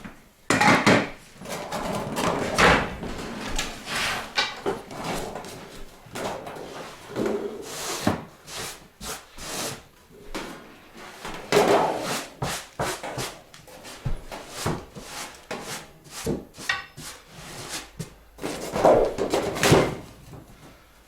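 Irregular knocks, clunks and scrapes of a fireplace and its chimney pipe being fitted, with a short rattle near the end.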